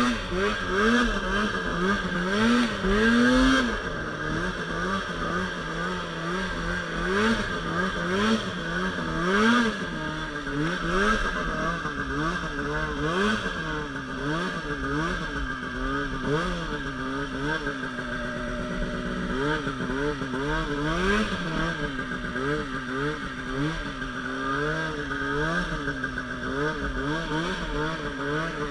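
Polaris RMK Pro 800 two-stroke snowmobile engine being revved up and down over and over while riding through deep powder, its pitch rising and falling every second or two over a steady hiss.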